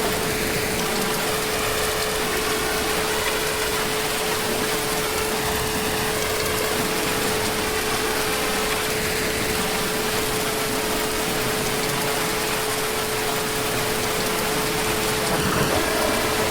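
Heavy rain falling steadily, an even rushing hiss, with a steady tone held underneath it; it swells slightly near the end.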